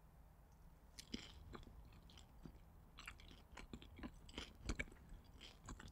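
Faint chewing of a soft potato cheese pancake: irregular mouth clicks and smacks starting about a second in.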